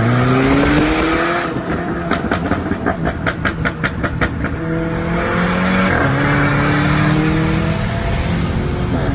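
Exhaust of a Stage 2 tuned Volkswagen Beetle 2.0 TSI turbo four-cylinder with a homemade 76 mm valved, decat exhaust, revving up with rising pitch. About two seconds in, a string of a dozen or so sharp pops at about five a second on lift-off, then the engine pulls again, its pitch stepping and rising through the gears.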